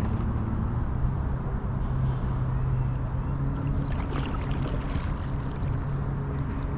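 Low, steady engine drone with a held hum that shifts pitch near the start, over the trickle and splash of water around a paddled kayak.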